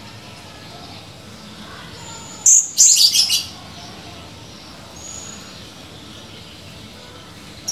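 Blue-crowned hanging parrot (serindit) calling in shrill, high-pitched notes: a burst of several quick calls about two and a half seconds in, with a few fainter thin notes before and after.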